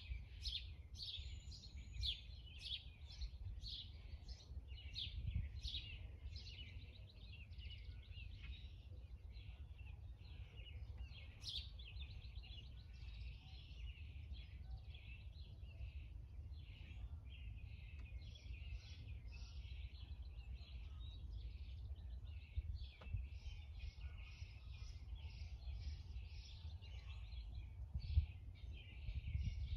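Small birds chirping over and over, in separate quick chirps at first and then a denser, continuous twittering, over a low steady rumble.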